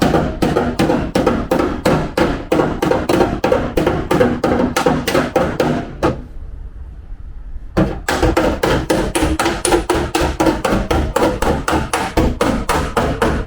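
Body hammer striking the steel body panel of a Toyota Sienta in rapid, even blows about three a second, each with a short metallic ring: panel beating to work out collision damage. The hammering stops about six seconds in and starts again about a second and a half later.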